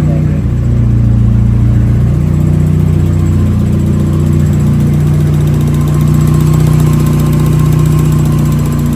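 Turbocharged Nissan Hardbody pickup engine running at a steady speed with an even low hum and no revving. It cuts off abruptly at the end.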